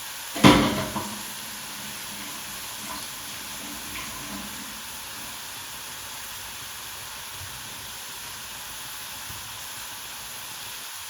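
Onions and rinsed raw rice frying in oil in a pot, a steady sizzle. A single loud knock about half a second in, with a couple of faint knocks after.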